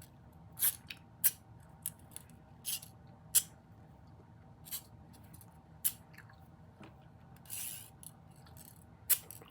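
Tape measure being handled: a run of sharp, irregular clicks and a short sliding hiss about three quarters of the way through.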